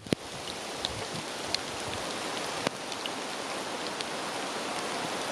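Blizzard: wind-driven snow falling in a steady hiss, with scattered small ticks of snow striking surfaces, after a sharp click right at the start.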